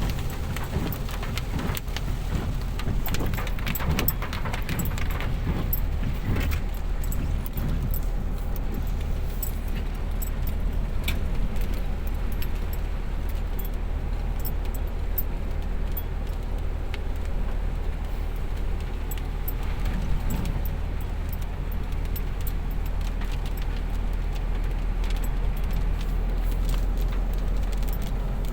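Light rain falling, with many small scattered drop ticks over a steady low rumble.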